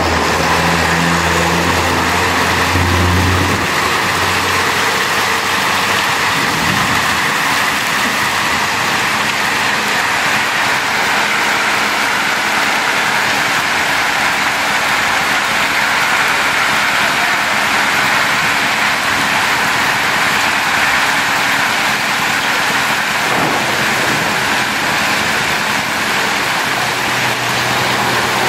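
Heavy rain pouring down steadily, with a car's engine passing close by in the first few seconds.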